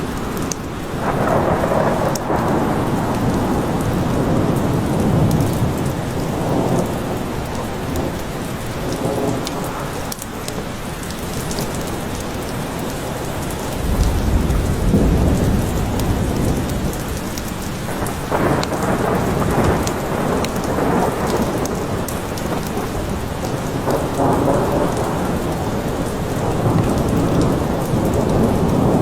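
Steady heavy rain falling in a forest, with rolls of thunder rumbling and swelling several times, the strongest about halfway through.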